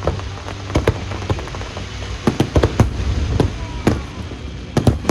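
Aerial fireworks show: a dozen or so sharp bangs from shells bursting at irregular intervals, over a steady low rumble.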